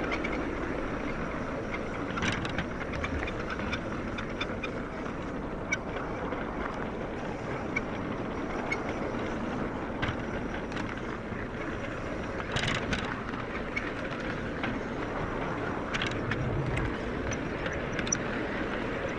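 LGB garden-scale model train running along its track: a steady rolling rumble with scattered sharp clicks every second or two.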